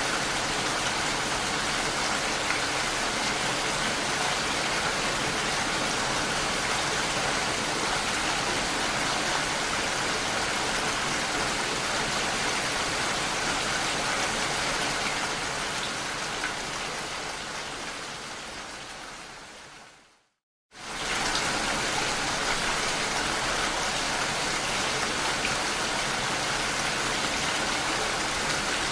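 Steady rain falling. About two-thirds of the way through it fades out to a moment of silence, then starts again abruptly at full level.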